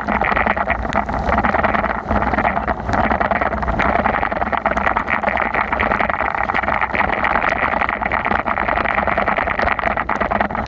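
Steady rushing noise of a bicycle ride in heavy rain: tyres hissing through water on the wet road, with rain and wind on the microphone.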